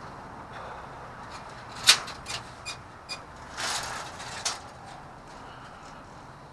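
Car door being handled over a steady low hum: a loud sharp click of the latch about two seconds in, then several lighter clicks and a short scraping rustle.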